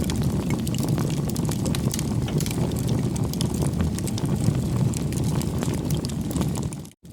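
Bonfire burning with a steady low roar and many sharp crackles and pops of burning wood. The sound cuts out briefly near the end.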